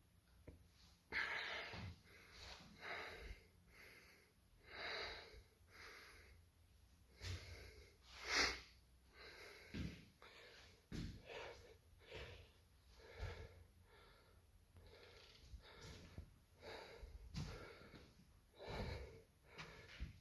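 A person breathing heavily, breaths coming roughly once a second, with one sharper, louder breath about eight seconds in.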